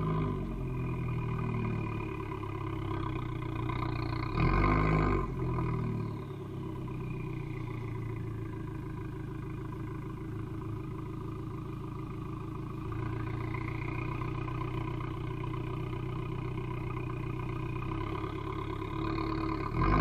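Abarth 595 Competizione's turbocharged 1.4-litre four-cylinder running through an Akrapovic exhaust, mostly idling steadily. A short rev rises and falls about four seconds in. From about two-thirds through the revs climb slowly, ending in a sharp loud rev at the very end.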